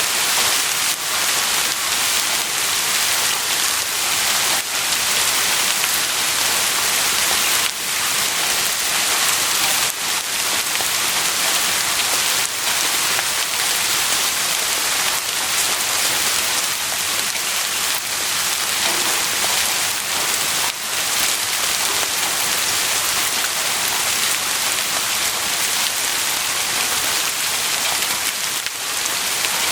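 Heavy rain falling steadily, a dense hiss of many drops with faint individual drop ticks throughout.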